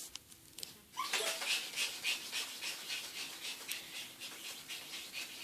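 A Yorkshire terrier panting fast and hard, about four or five breaths a second, starting about a second in: the dog is out of breath from exertion.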